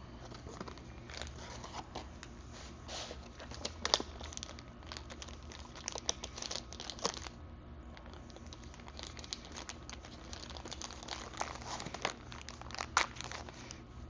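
Packaging crinkling and rustling as it is handled, in irregular crackly bursts with a few sharper clicks.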